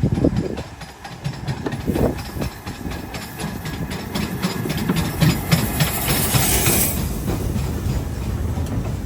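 Steam train running past: a low rumble with a quick, regular clatter of wheels and carriages. A hissing rush comes briefly about six to seven seconds in.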